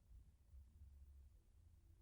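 Near silence: a faint low hum of room tone.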